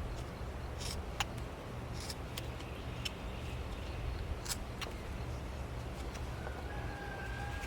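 Carving knife making short, scattered slicing cuts in wood, about seven sharp cuts, over a steady low hum.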